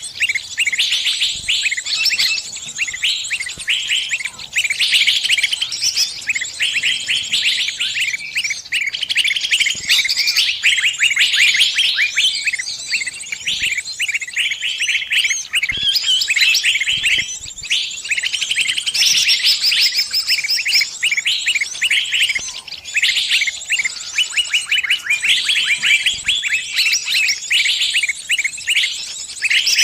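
Bird distress calls: a dense stream of rapid, high chirps with only brief pauses, the cries of a trapped bird calling its flock for help.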